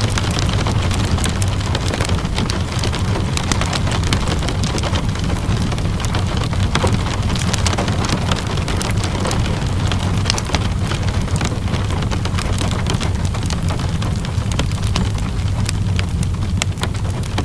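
Steady rainfall with a deep low rumble, mixed with the many small pops and crackles of a wood fire burning in a fireplace.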